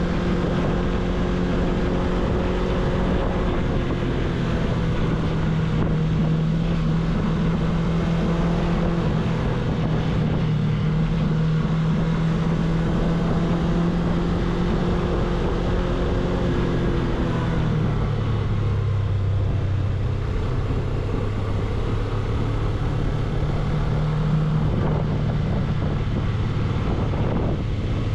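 Suzuki V-Strom 250's parallel-twin engine running steadily under way, with wind rushing over the microphone. About two-thirds of the way through, the engine note drops to a lower pitch and holds there.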